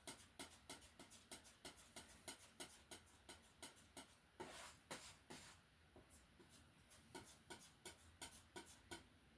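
Oil paint being mixed on a palette to a dark color: faint, irregular taps and scrapes, several a second.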